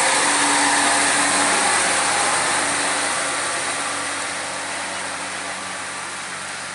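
Truck engine running with road noise, steady and then fading gradually as the vehicle moves away.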